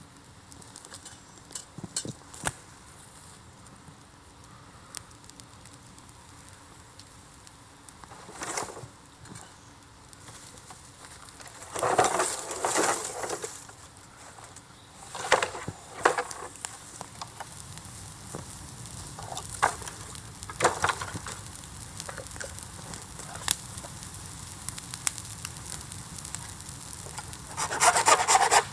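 Bamboo bonfire crackling, with scattered sharp pops and a few longer hissing, crackling flare-ups. Near the end a dense, steady rasping starts.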